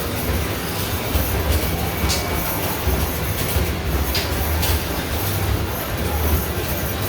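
Arcade basketball shooting machine in play: a steady low rumble of basketballs rolling and thudding down the return ramp, with a few sharp knocks of balls striking the hoop or backboard.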